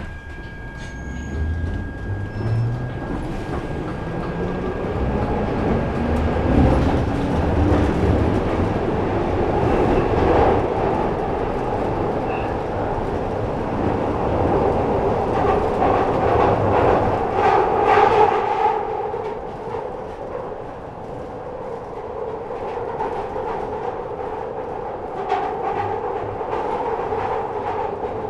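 Glasgow Subway train heard from on board, pulling away with its motor whine rising in pitch over the first several seconds, then running through the tunnel with a steady rumble and clattering wheels on the rails.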